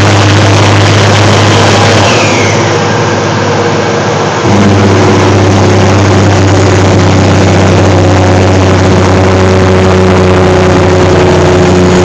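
Straight-piped diesel truck engine on the jake brake (engine brake), a loud, steady low engine note in a tunnel. It eases off about two seconds in, then cuts back in abruptly a couple of seconds later and holds.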